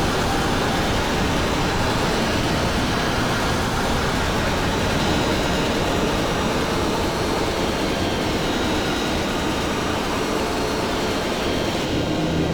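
Many distorted electronic music tracks layered at once, making a loud, steady, dense roar of noise with faint held tones running through it.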